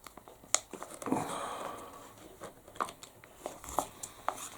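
Foil sauce pouch being squeezed by hand, crinkling and crackling, with scattered sharp clicks and a longer rustle about a second in.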